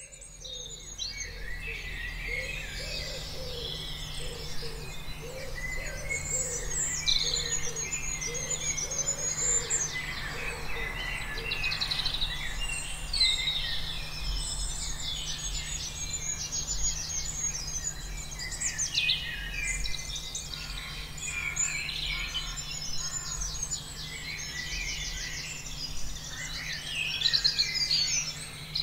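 Many birds calling and singing at once, a dense mix of chirps and rapid trills, with a lower repeated call through the first third, over a steady low hum.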